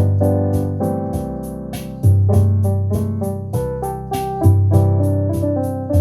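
Instrumental music on an electric keyboard: sustained piano-like chords over a deep bass note that changes about every two seconds, with a steady ticking beat of about four to five ticks a second.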